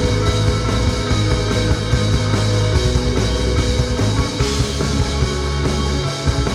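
Rock band playing live, with guitars and drums.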